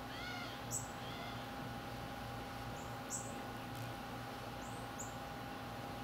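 Small birds chirping: a quick run of arching chirps near the start and another about a second in, then short, sharp, very high chips every second or two, over a steady hum.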